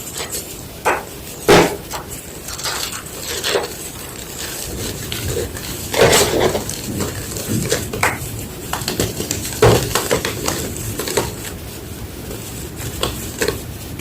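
White gym chalk crunching and crumbling in irregular crisp cracks, with the loudest crunches about a second and a half in, around six seconds in, and near ten seconds in.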